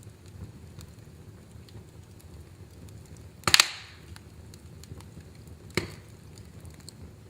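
Wood fire burning in a fireplace: a low steady rumble of flames with scattered small crackles, one loud sharp pop about halfway through with a brief crackle after it, and a smaller pop a couple of seconds later.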